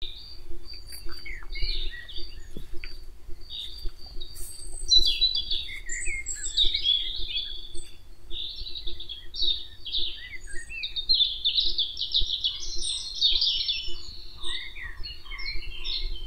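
Songbirds chirping and singing continuously in quick overlapping phrases, over a faint steady hum.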